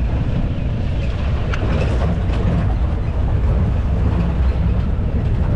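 Steady low rumble of a moving motor vehicle, heard from on board.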